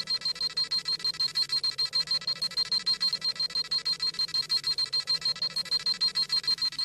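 Dragon Ball Z scouter sound effect: rapid high-pitched electronic beeping, about eight beeps a second, the device's scanning sound as it reads a power level.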